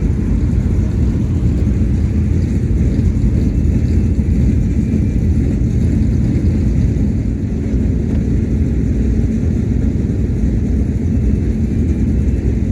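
Race car engines running, a steady loud rumble.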